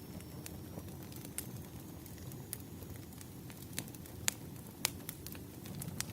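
Wood fire burning: a steady low rumble of flames with scattered sharp crackles and pops, the loudest two a little past four and five seconds in.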